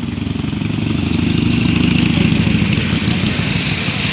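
Harley-Davidson Iron 883's air-cooled V-twin engine running with a pulsing, uneven rumble, growing louder up to about halfway through and then easing slightly.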